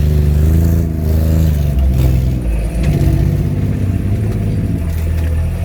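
Off-road rig's engine revving up and down under load while crawling over rock, with a few knocks from the rocks or the drivetrain.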